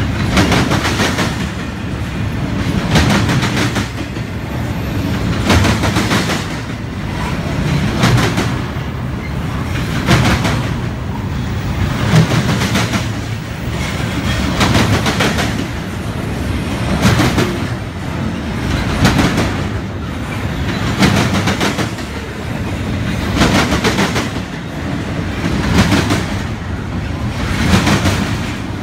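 Union Pacific double-stack container train rolling past, its steel wheels clicking over the rail joints in regular clusters about every two seconds, over a continuous rumble.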